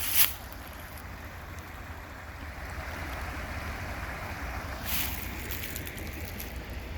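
Creek water flowing with a steady rush, with a brief crunch right at the start and another about five seconds in.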